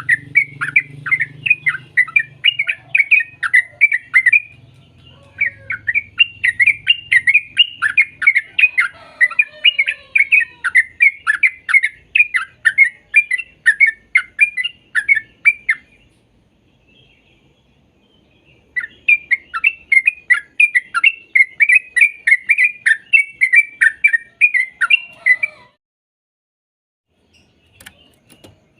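Trucukan (yellow-vented bulbul) song: rapid runs of loud chirps, about three a second, broken by short pauses near 5 seconds in and again from about 16 to 19 seconds, stopping about 26 seconds in.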